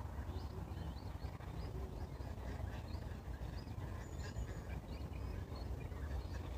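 Small songbirds chirping and twittering in quick, repeated short notes, with one thin high whistle about four seconds in, over a steady low rumble.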